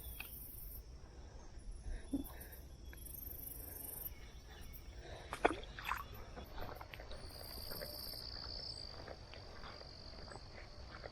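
Faint pondside insect buzzing, with a steady high insect trill starting about seven seconds in. A few sharp clicks and rustles come through, the loudest about five and a half seconds in.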